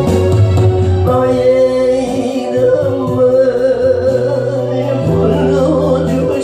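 Solo voice singing a Korean Christian praise song over instrumental accompaniment, holding long notes with a slow vibrato while the bass steps between notes.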